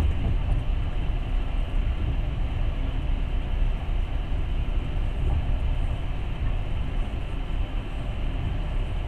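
Passenger train running at speed: a steady rumble of the wheels on the rails.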